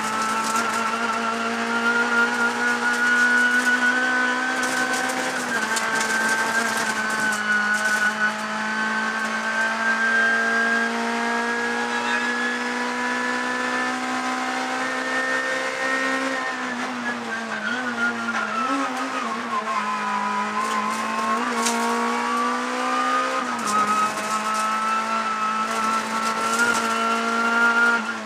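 Rally-prepared Honda Civic's engine heard from inside the cockpit, running hard at high revs. Its pitch climbs slowly for about sixteen seconds, drops over the next few seconds, then climbs again.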